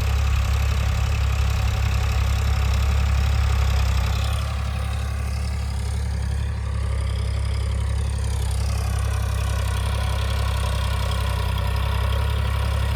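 Eicher 551 4x4 tractor's diesel engine running steadily near idle. About four seconds in it gets slightly quieter, and a whine rises and then falls over the next few seconds.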